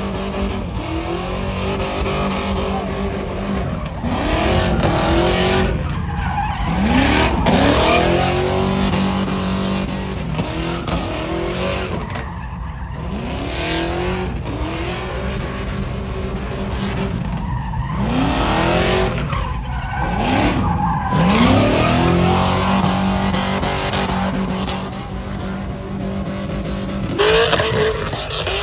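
A truck engine revved hard again and again, its pitch sweeping up and dropping back every two to three seconds, over a continuous rush of spinning, screeching tires as in a burnout or donut.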